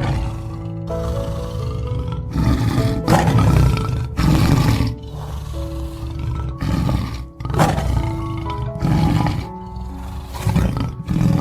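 Tiger roaring, about eight separate calls, with background music playing under them.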